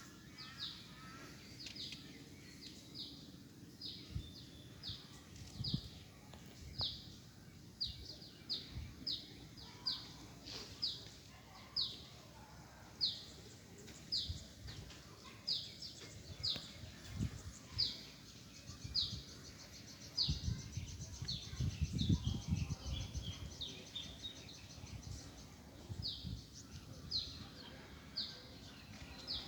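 A bird calling over and over, a short, high, downward-slurred chirp repeated about once a second. A low rumble comes in about two-thirds of the way through.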